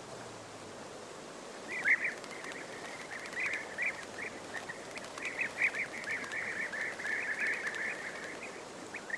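European bee-eaters calling: a run of short, rolling chirps that starts about two seconds in and runs on for several seconds, over a steady outdoor hiss.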